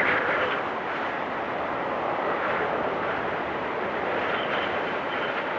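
Blizzard wind blowing steadily, a stronger gust at the start easing off, with a faint thin whistle from about four seconds in.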